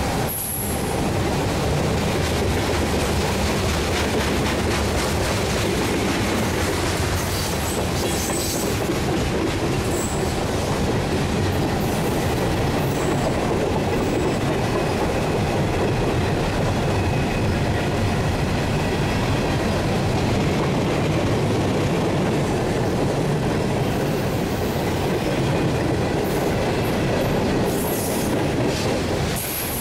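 Freight train cars rolling past on the track: a steady loud rumble and clatter of wheels over rail, with brief high wheel squeals here and there.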